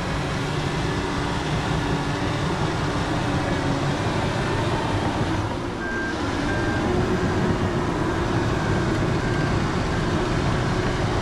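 Heavy diesel earthmoving equipment running steadily under load. A few short, high beeps come about halfway through.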